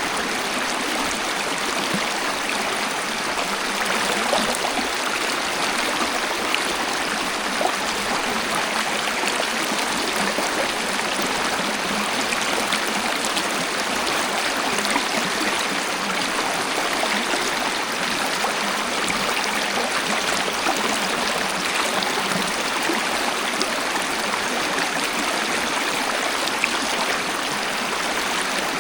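Waterfall: water rushing and splashing in a steady, unbroken wash of sound, bright and hissy with little deep rumble.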